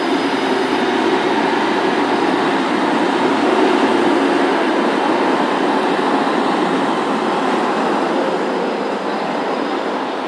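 Train noise at a railway station: a steady rushing rail noise with a low hum, easing slightly near the end.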